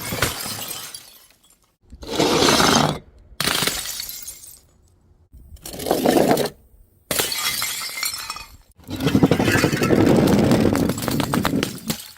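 Glass bottles shattering one after another, about five separate smashes, each with a jangle of glass that trails off.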